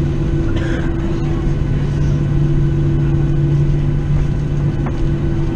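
Cabin noise inside a Boeing 737-700 on the ground after landing: its CFM56-7B engines idling, a steady low hum over a constant rumble.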